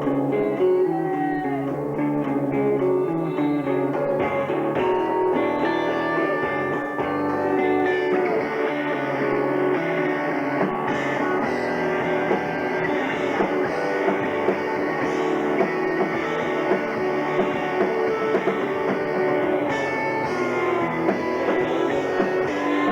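Live rock band playing an instrumental passage, with guitar to the fore and no singing.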